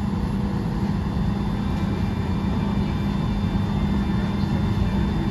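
Steady cabin drone inside a Boeing 737-800 airliner before departure: a continuous low hum with a faint high whine over it, from the aircraft's air system and engines.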